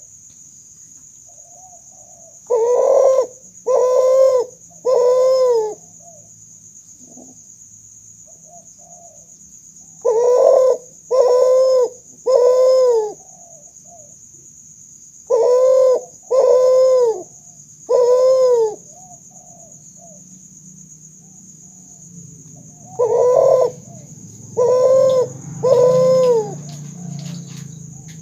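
A kuter, a hybrid of spotted dove (tekukur) and Barbary dove (puter), cooing. It gives four bouts of three loud, arched coos each, with softer short coos between the bouts.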